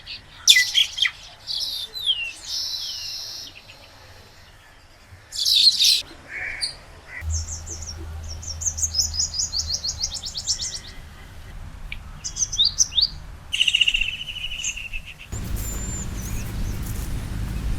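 Wild birds calling and singing in short, high chirps and whistled phrases. In the middle comes a quick run of high repeated notes, then a short buzzy trill. The background changes abruptly a few times, as one recording is cut to the next.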